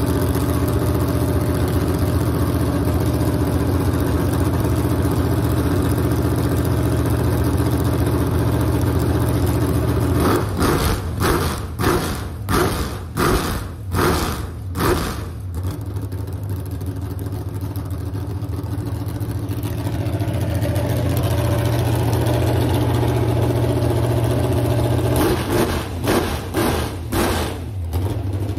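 Alcohol-fuelled 502 big-block Chevrolet V8 on an engine run stand, running at a steady idle. It is blipped through a rapid string of sharp throttle revs in the middle and a few more near the end.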